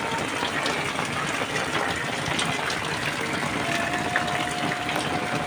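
Heavy rain falling: a steady, even hiss of water with scattered drip-like ticks.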